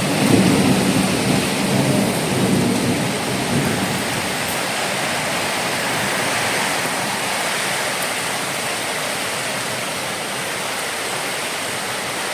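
Heavy cyclone rain pouring steadily as a dense hiss, with a low rumble through the first few seconds that then fades into the even rush of the rain.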